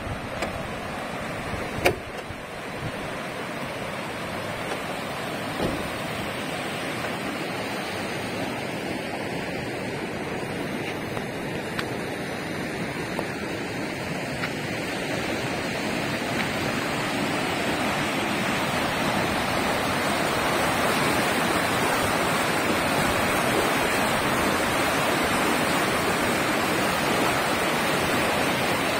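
Tidal current rushing through the narrow Haiki Seto strait: a steady noise of turbulent, foaming water that grows louder over the second half. A single sharp knock about two seconds in.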